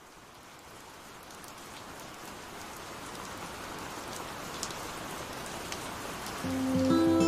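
Steady rainfall with scattered individual drops ticking, fading in and growing louder. Music begins near the end.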